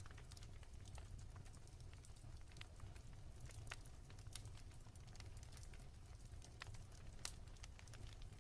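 Wood fire crackling softly: scattered small pops at an irregular pace, with a sharper pop near the end, over a steady low rumble.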